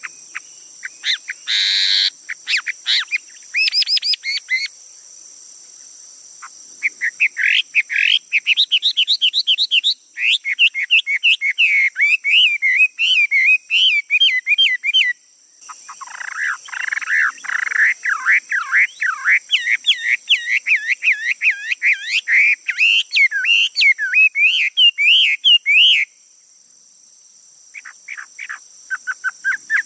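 Male songbird singing long runs of rapid, quickly rising and falling notes, with quieter pauses about five seconds in, briefly in the middle, and near the end. A steady high-pitched hiss runs underneath.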